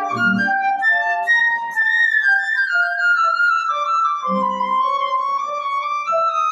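Flute playing a slow, legato melody with piano accompaniment; the flute line drifts downward through the middle, with piano chords near the start and again about four seconds in.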